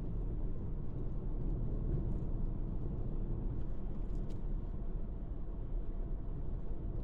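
Car driving along a road: a steady low rumble of engine and tyres, with a couple of faint ticks about four seconds in.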